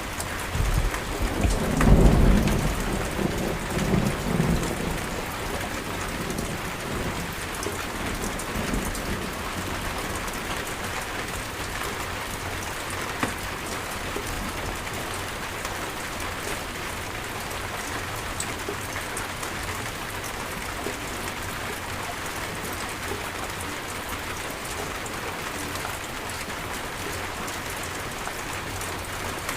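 Steady heavy rain falling, with a clap of thunder about a second in that rumbles and rolls off over the next few seconds.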